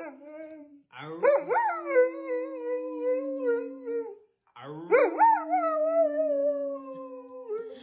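A dog howling: two long howls, each rising sharply at the start and then held, sinking slowly in pitch.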